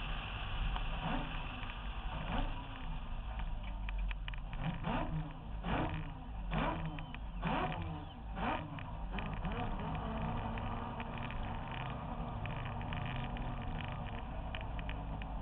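Rotary-engined Mazda RX-7 drift car heard from a roof-mounted camera, driving along with a steady low rumble and wind noise. Through the middle it revs up in several short rising bursts, then settles back to a steady run.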